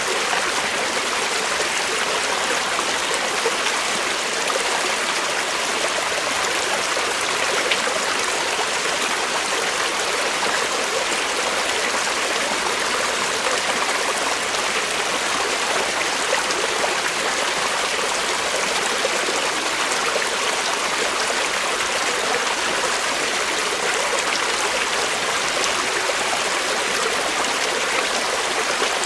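Creek water flowing steadily over rocks, a constant rushing hiss with trickling and gurgling.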